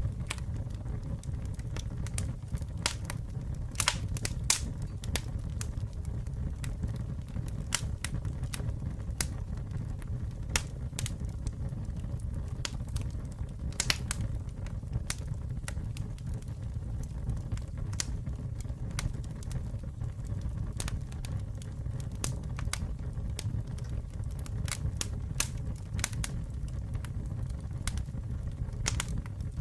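Campfire burning: wood crackling and popping in irregular sharp snaps over a steady low rumble of the flames.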